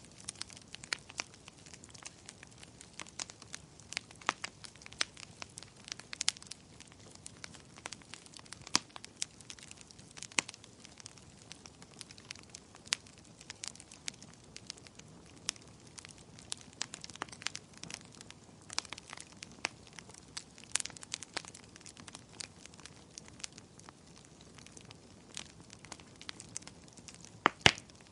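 Fire in a fireplace crackling, with irregular sharp pops over a soft steady hiss; the loudest pops come near the end.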